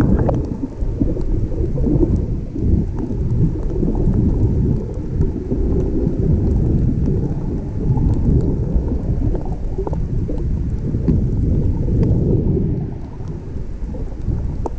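Rough, stormy sea water churning and washing against the microphone: a loud, low rumble that swells and eases without a break.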